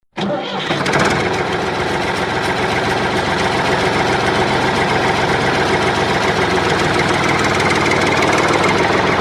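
A small motor switches on abruptly and runs steadily, with a fast, even mechanical pulsing.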